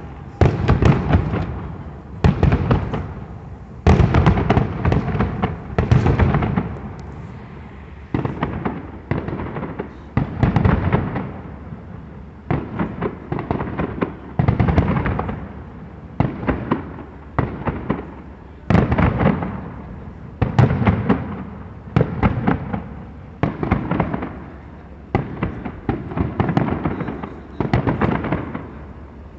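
Fireworks display: aerial shells bursting one after another, every second or two, each burst a quick cluster of sharp cracks that dies away.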